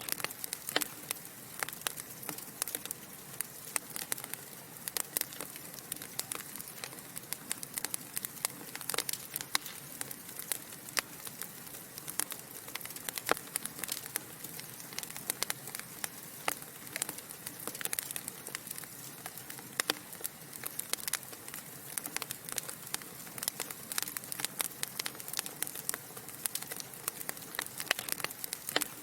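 Wood fire burning in a fireplace: a steady soft hiss with many sharp, irregular crackles and pops, several a second.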